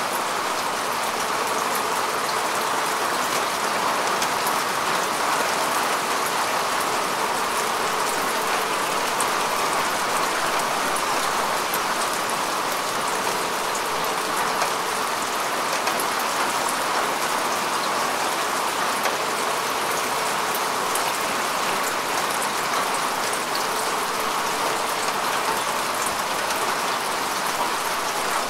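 Steady rain falling on grass and earth, a dense even patter of many drops.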